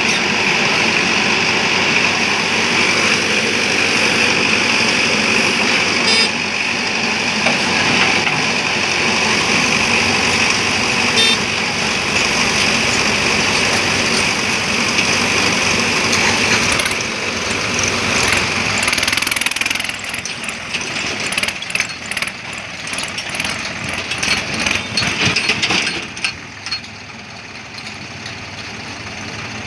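Heavy diesel machinery running steadily. About two-thirds of the way in, the running gives way to a stretch of irregular clattering knocks, and the sound drops in level near the end.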